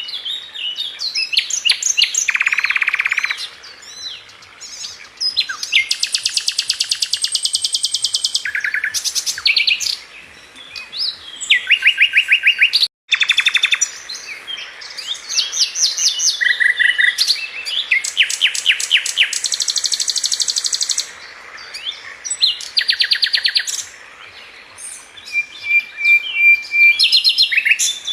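Sikatan London flycatcher singing continuously: high, varied phrases of rapid trills, rattles and chattering note series, one after another with short pauses, and a split-second dropout about halfway.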